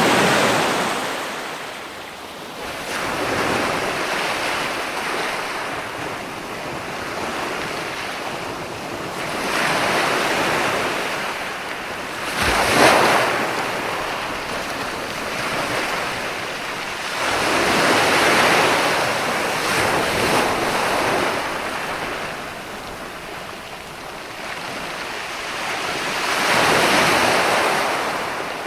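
Ocean waves breaking and washing ashore in repeated surges several seconds apart, with one sharper crash about halfway through.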